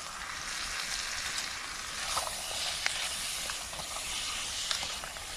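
Chicken and onions sizzling as they fry in a pan, with a few light clicks as they are stirred.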